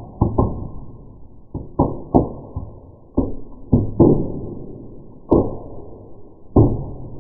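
Burning birch bark in a fireplace popping and crackling, slowed down: about ten irregular sharp pops, each dying away over roughly half a second, sounding low and dull.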